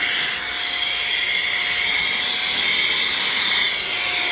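Cordless electric air duster's high-speed motor running steadily, blowing air: a constant high whine over a rushing hiss of air.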